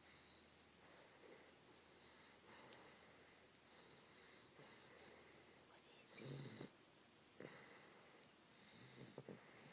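Three-month-old English Bulldog puppy snoring faintly in her sleep: soft breaths about every two seconds, with a louder snore about six seconds in.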